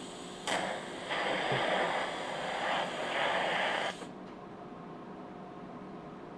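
TIG welding arc hissing and crackling on thin sheet steel, surging in uneven bursts, then cutting off suddenly about four seconds in. The tungsten electrode has been dipped into the weld puddle, contaminating it.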